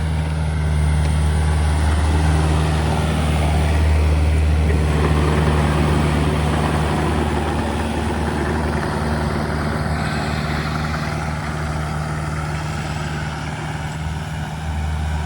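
Excavator's diesel engine running steadily at work as it pushes and pats down rock and fill with its bucket, with a steady low hum and extra clatter and noise in the middle stretch.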